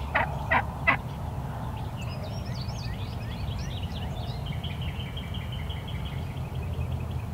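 Wild turkey calling: three loud, short yelps in quick succession, after a gobble. Small songbirds then sing, ending in a run of evenly repeated notes, over a steady low rumble.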